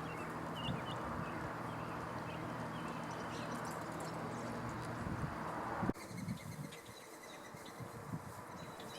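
Common grackles giving short, faint chirps over a steady low hum and background noise. About six seconds in, the hum and noise cut off abruptly with a click, leaving quieter background with scattered chirps.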